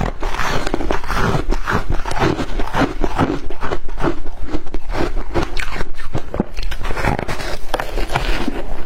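A person biting and chewing shaved ice close to the microphone: a dense, irregular run of crunches with no pause.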